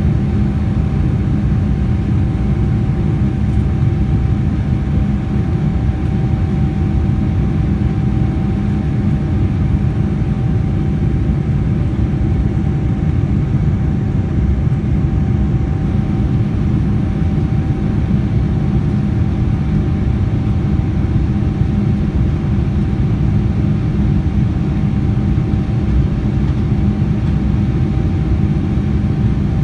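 Boeing 787-9 Dreamliner's jet engines heard from inside the cabin as a steady, loud, low drone, with a constant hum and a thin high tone running through it.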